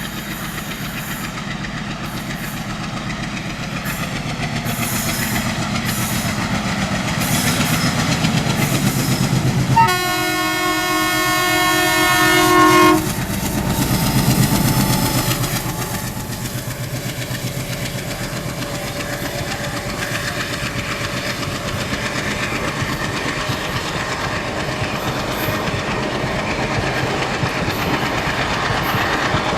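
An Indian Railways locomotive-hauled train passing at speed, its wheels clattering steadily over the rails. About a third of the way in, a locomotive horn sounds a chord for about three seconds.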